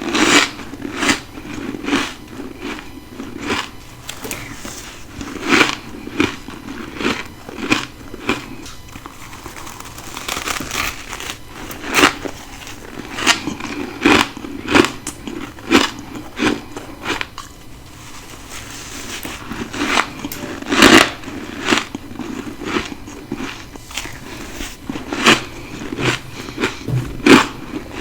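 A person biting and chewing ice close to the microphone: a long run of sharp, irregular crunches, about one a second, with a few louder bites near the middle and end.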